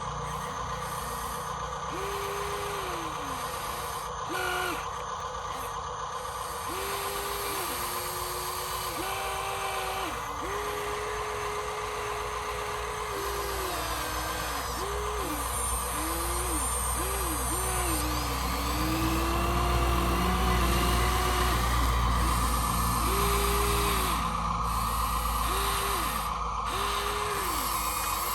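Electric motors of radio-controlled construction toys whining in short starts and stops, each burst rising and falling in pitch, over a steady hum, with a low rumble swelling in the middle.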